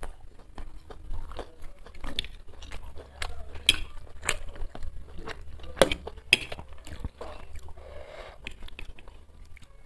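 Close-miked chewing and biting of chow mein noodles, with a string of sharp clicks and smacks, the loudest around the middle.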